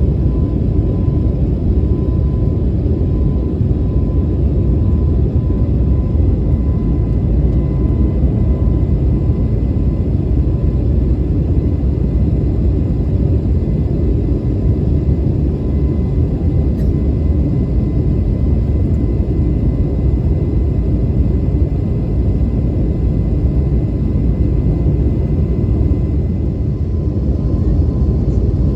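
Steady, loud rumble of an Airbus A321neo's engines and airflow heard inside the cabin during the climb after takeoff, with a faint steady tone over it.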